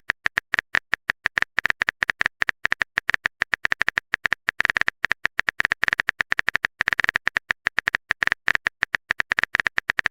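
Rapid phone-keyboard typing clicks, a typing sound effect, tapping out at an uneven rate of several clicks a second with no pause, then stopping abruptly.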